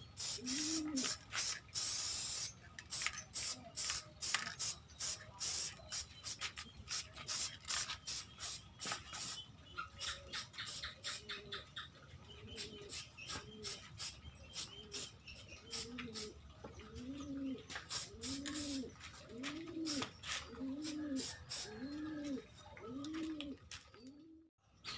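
A dove cooing in low notes that rise and fall, repeated about once a second and most regular in the second half. Underneath, a dense run of sharp clicks and scratches, thickest in the first half, thins out.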